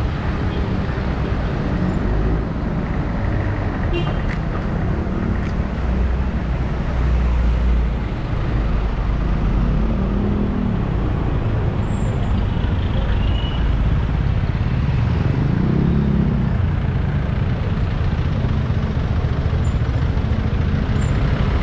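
Steady road-traffic noise heard while riding through city streets: a continuous low engine rumble over tyre and air noise, with no clear single event standing out.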